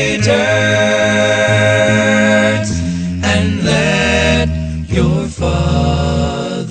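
Gospel song: a voice holds long sung notes, sliding into each new one, over a steady sustained low accompaniment.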